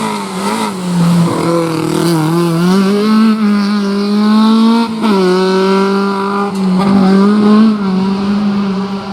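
Historic rally car engine working hard on a special stage, revving up and down through the gears as it passes. About five seconds in it drops suddenly in pitch, as on a gear change, and near the end it fades away.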